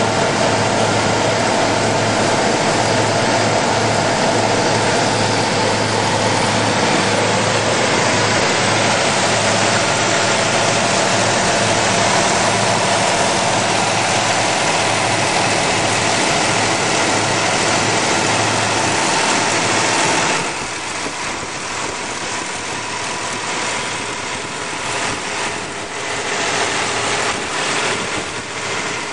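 1970 Pontiac Firebird Formula's V8 engine idling steadily with a low, even hum. About twenty seconds in the sound drops somewhat and turns less even.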